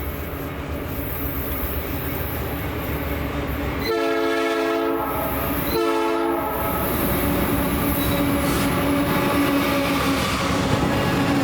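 A BNSF diesel locomotive's air horn sounds a chord twice, first a long blast of about a second, then a short one, over the steady rumble of the train. After the horn, the locomotive's drone grows louder as it approaches.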